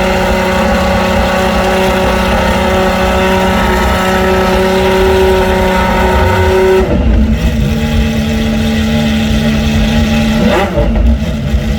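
GMA T.50s XP1's naturally aspirated Cosworth V12 idling after a cold start at a high, steady pitch. About seven seconds in, the idle drops abruptly to a lower, steady note, typical of the fast cold idle settling. There is a short wobble in pitch near the end.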